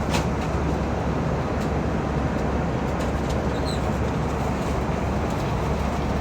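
Steady running noise of a vehicle in motion: a constant low hum with an even hiss over it.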